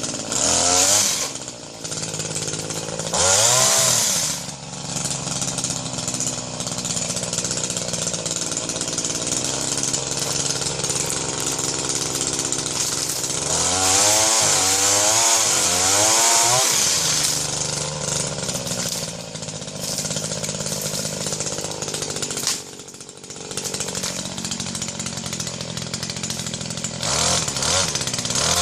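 Tasco TPS 260 chainsaw's small two-stroke engine running at a steady idle. It is revved up briefly a couple of times near the start and again near the end, with a quick series of throttle blips around the middle.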